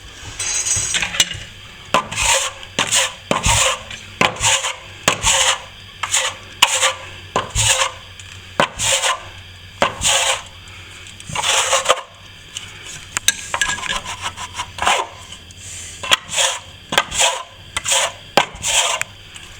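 Steel plastering trowel scraping over a setting skim coat of plaster in short repeated strokes, about one or two a second: the finish coat being polished smooth near the end of the job.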